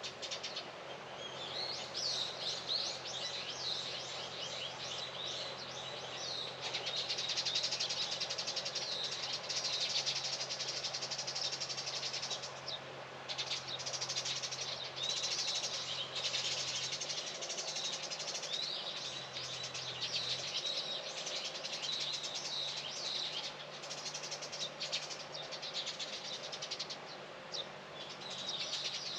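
Many small birds chirping and twittering continuously in dense, overlapping calls.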